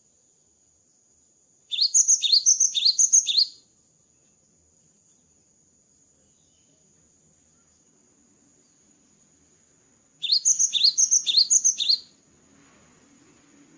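Cinereous tit (gelatik batu) singing: two loud bouts, each of four quickly repeated two-note phrases with falling notes, the first about two seconds in and the second near the end.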